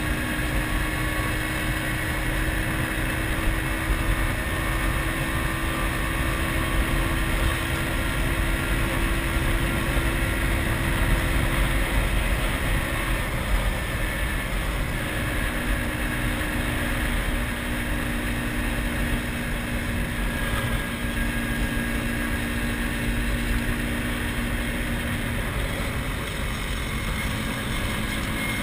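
MZ ETS 250 Trophy Sport's single-cylinder two-stroke engine running under way, with heavy wind noise on the microphone. Its note drops out briefly about halfway through and again near the end.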